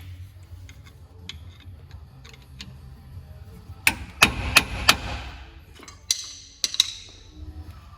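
Hand tools working on metal: four sharp, ringing metallic strikes in quick succession about four seconds in, then two higher, ringing metal clinks near seven seconds, over a steady low hum.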